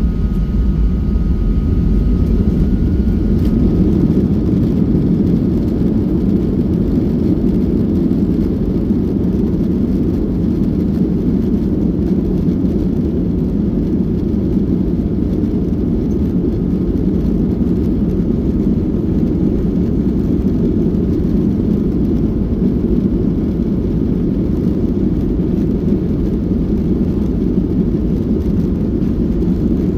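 Steady low rumble of jet engine and airflow noise heard inside the cabin of a Boeing 737-800 in flight, holding an even level throughout.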